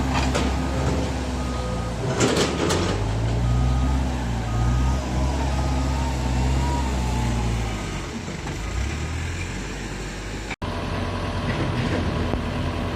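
Heavy diesel earthmoving machinery running under load, with a reversing alarm beeping steadily for most of the stretch. Loud clanks of rock or steel come just after the start and again about two seconds in.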